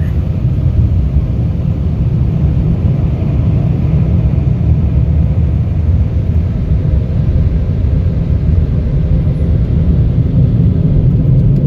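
Automatic car wash blow dryer running, a loud, steady low roar heard from inside the truck's cab.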